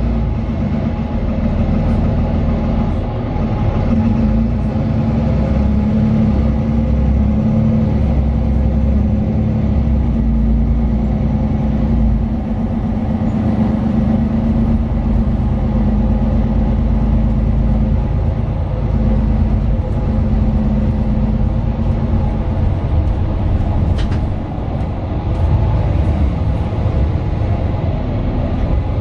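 Mercedes-Benz Citaro 2 city bus on the move, heard from inside the passenger cabin: a steady hum from its OM 936 six-cylinder diesel and ZF Ecolife automatic gearbox over a deep road rumble, with a couple of faint clicks near the end.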